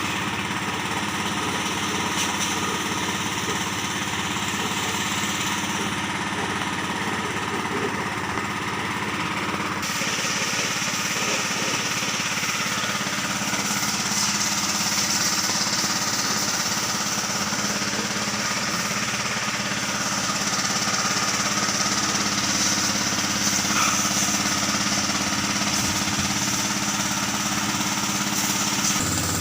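Kubota L3608 tractor's diesel engine running steadily with a knocking clatter; the sound turns brighter and hissier about ten seconds in.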